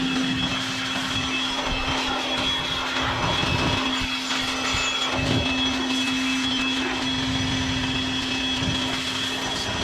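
Electric air blower running steadily with a constant whine, blowing an air-conditioning package unit dry after cleaning so that it won't short out.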